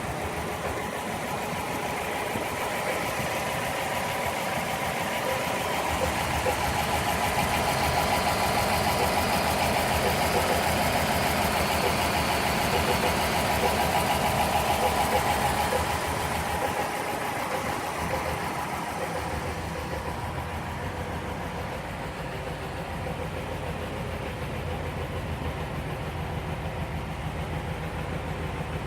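A 1956 Ford Thunderbird's V8 engine running steadily. It grows louder for about ten seconds in the middle, then settles back to its earlier level.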